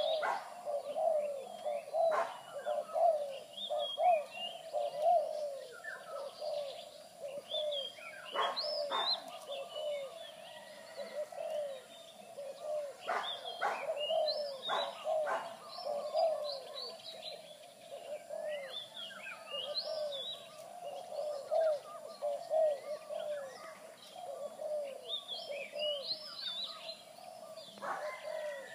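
Zebra doves (merbuk) cooing in long runs of quick, short, arched notes, one bird answering another, with smaller birds chirping higher up.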